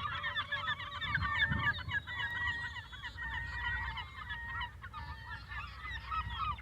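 A flock of birds calling over one another in a dense, continuous chatter of short, pitched calls, with a low rumble underneath.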